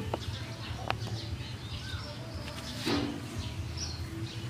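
Small birds chirping faintly in the background over a steady low hum, with scattered handling clicks and a brief rustling burst about three seconds in.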